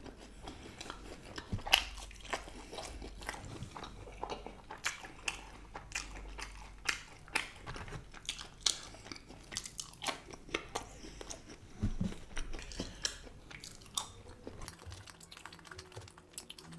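Close-miked chewing of a breaded fish finger: crisp crunches of the fried coating, a few each second at an irregular pace.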